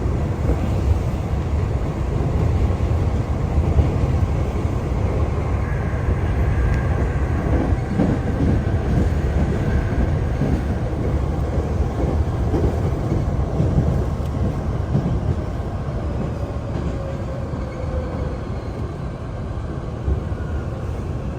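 Hankyu Kyoto Line electric train running, heard from inside the carriage: a steady low rumble of wheels on track, with a faint motor whine that falls in pitch in the second half as the noise eases slightly.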